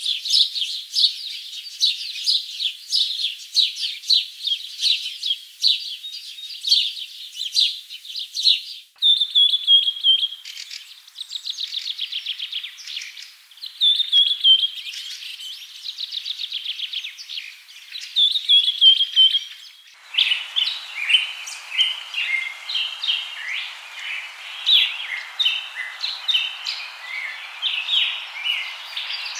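Songbirds chirping and trilling, many short calls overlapping, with repeated phrases that slide down in pitch. The sound changes abruptly twice, about a third and two-thirds of the way in, and after the second change a steady hiss of background noise sits under the birds.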